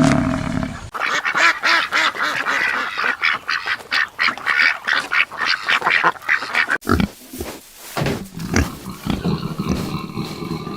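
Farm animals calling in quick short repeated calls, the sound changing abruptly about a second in and again near seven seconds, as between separate recordings.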